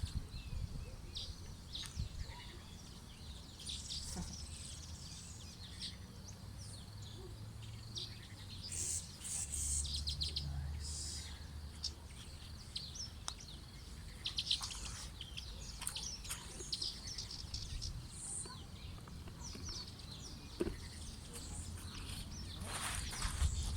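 Wild birds chirping and calling, many short high chirps scattered throughout, over a low steady background rumble.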